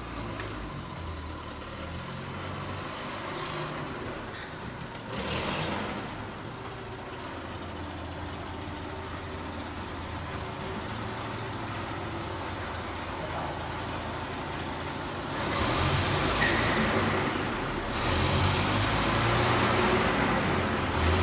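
Van engine running, with a brief louder rush about five seconds in; it grows louder about two-thirds of the way through and again near the end.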